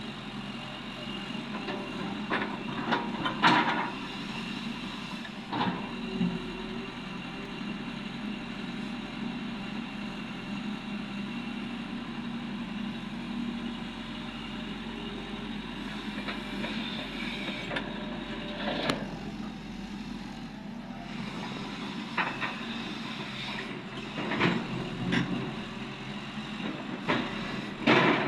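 Cat 330D excavator's diesel engine running steadily while loading rock into a dump truck, with several loud knocks and clanks scattered through.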